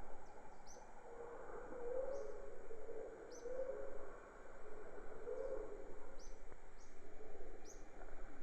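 Wild birds calling: short high chirps repeating about once a second over lower, warbling calls that come in phrases about a second long, above a steady background hiss.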